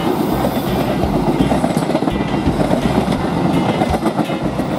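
Passenger train coaches rolling past close by: a steady rumble of steel wheels on the rails, with a few clicks as the wheels cross rail joints.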